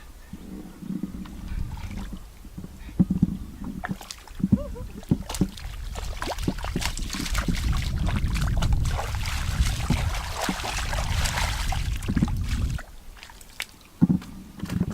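Water sloshing and splashing, with scattered knocks and clicks, as someone works in shallow water. It grows into a louder stretch about halfway through, then cuts off suddenly near the end.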